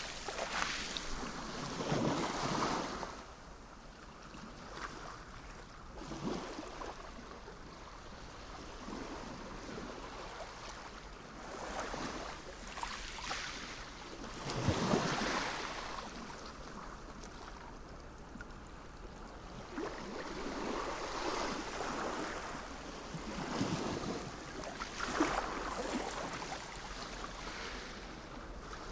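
Sea waves breaking and washing in, one swell of surf every few seconds at an uneven pace, the biggest about halfway through.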